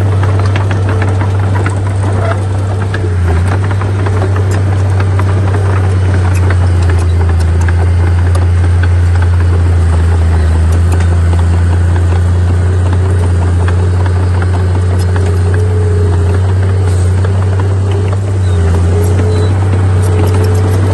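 Heavy earthmoving machine's diesel engine running steadily: a deep, even drone with a fainter higher whine over it and scattered light clicks.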